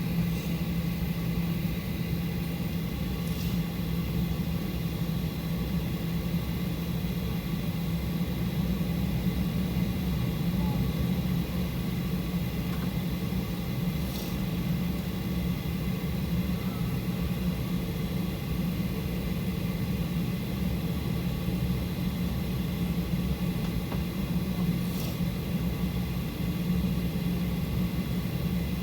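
Steady cabin drone of a Boeing 737-800 on the ground after landing: a constant low hum of engines and air systems, with faint ticks three times.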